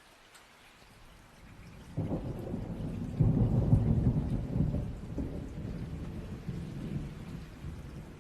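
A roll of thunder over light, steady rain. The deep rumble breaks in suddenly about two seconds in, is loudest a second or two later, and then slowly fades.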